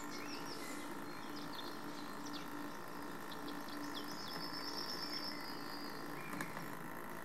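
Small birds chirping in short, quick calls, with a rapid trill about four to five seconds in, over a steady low hum.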